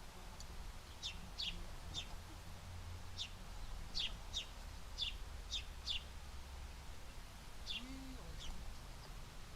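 Small birds chirping at a feeder: short, sharp, downward-sliding chirps repeated irregularly, about one or two a second, over a low steady rumble.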